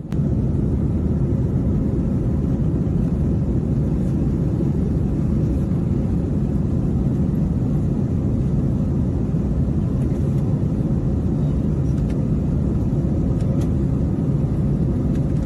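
Steady low rumble of a climbing Airbus A321 airliner, its engines and airflow running evenly throughout.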